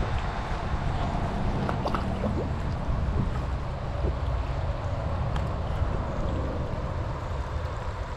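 Creek water running steadily over a shallow bed, with a low rumble underneath and a few faint light knocks.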